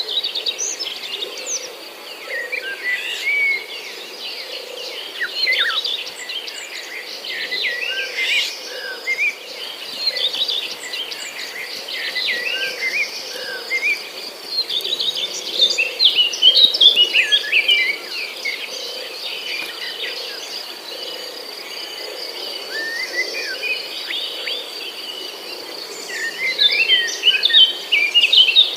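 Many small birds chirping and twittering in irregular bursts of short, quick notes, loudest about halfway through and again near the end.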